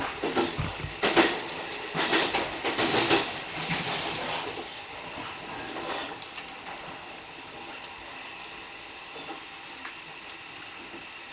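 Electric commuter train running, heard from inside the front car: loud wheel clatter over rail joints or points for the first few seconds, then settling into a steady, quieter running noise.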